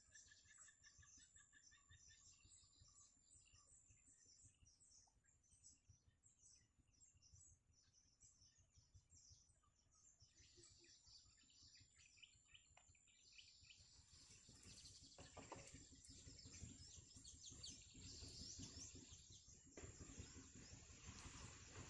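Faint bird chirps, many short high peeps, over the first half. From a little past the middle, a louder rustling noise takes over, with a thin steady high whine throughout.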